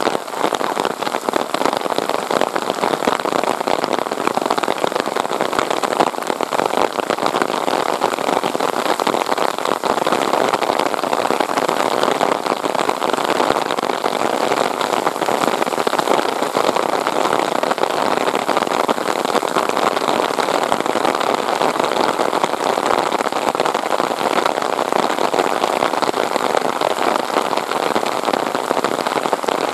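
Steady, heavy rain pattering close to the microphone, a dense even hiss, with the engines of a landing Boeing 777-300ER airliner running underneath it.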